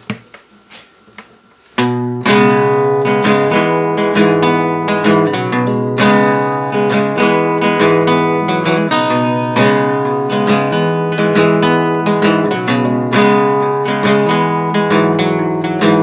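Acoustic guitar intro of a folk song: chords strummed in a steady rhythm, starting about two seconds in after a few faint clicks.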